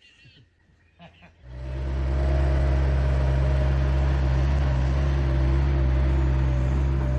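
Faint at first, then about a second and a half in an engine comes in suddenly and runs steadily at a constant speed, with a deep, even drone.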